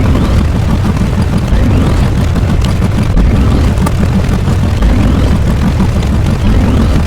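A loud, continuous low rumble with no speech.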